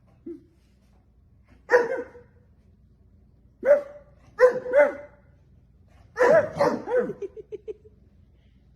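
A dog barking in separate bursts: a single bark about two seconds in, a quick pair near the middle, then a longer run of barks near the end that trails off into quick, short yips.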